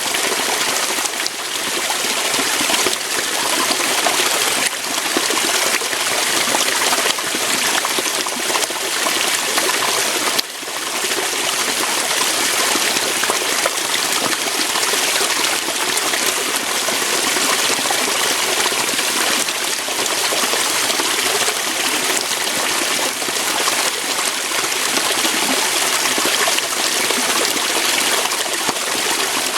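Waterfall: water rushing steadily over rocks, a dense even hiss with one brief dip about ten seconds in.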